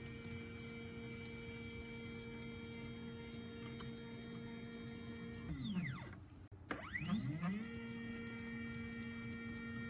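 A CNC 1610 mini router's motor running with a steady electric whine. About five and a half seconds in it winds down in pitch and stops for a moment, then ramps back up to the same steady speed.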